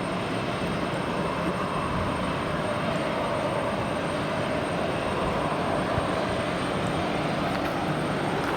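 Jet airliner engines running, a steady even rush of noise across the airfield.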